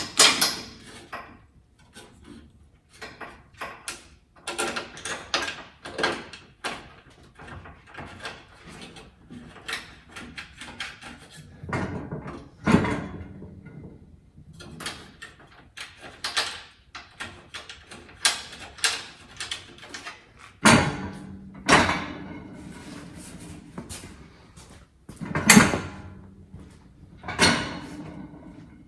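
Hand tools and metal parts clinking, clicking and knocking during work under a car: an irregular run of small clanks, with a few louder knocks that ring briefly.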